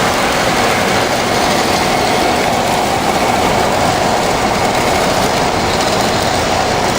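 Train running on the rails: a steady, loud rolling noise with no let-up.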